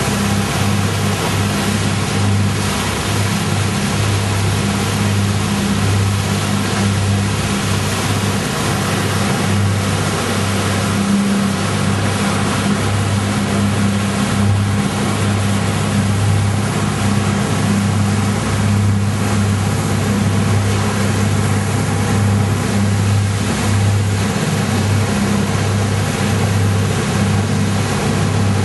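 A boat's engine running at a steady drone under a constant rushing noise, with no change in speed or load.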